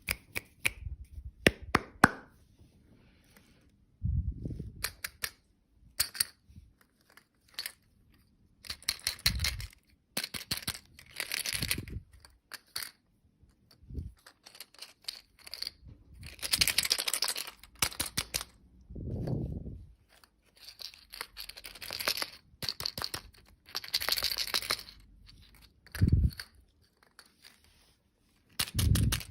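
Plastic candy wrappers being torn open and crinkled in bursts, with sharp clicks and a few short low thumps between them.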